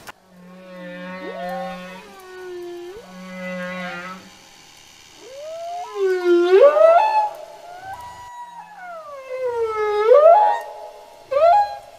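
Whale song: a series of long calls that glide up and down in pitch, several overlapping, with the loudest being rising swoops about six and ten seconds in.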